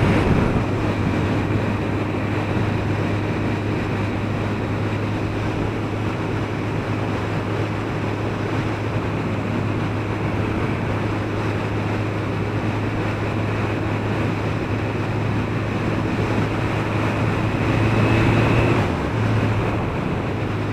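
Suzuki RF900R's inline-four engine running at a steady cruising speed, with heavy wind noise over the microphone. The engine note swells for a couple of seconds near the end, then drops back.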